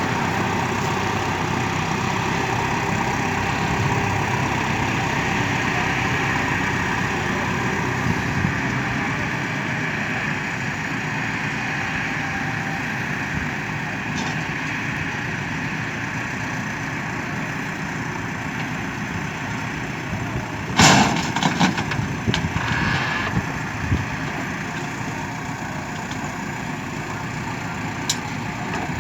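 A JCB 3DX backhoe loader's diesel engine running steadily. About three quarters of the way through there is a short cluster of loud metallic knocks and clanks.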